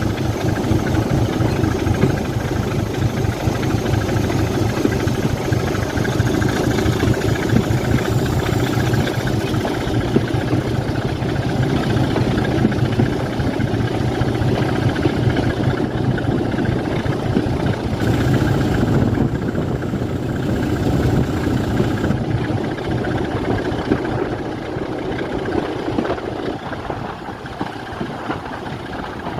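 Diesel locomotive engine idling steadily with a low, even throb, getting a little quieter over the last several seconds.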